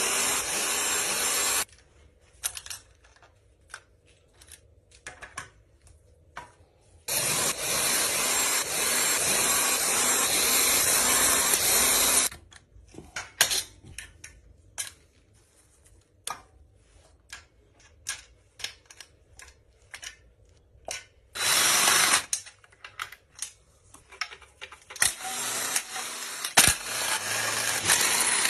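A power tool running in several long bursts, the longest about five seconds, with short metal clicks and taps in the pauses between them.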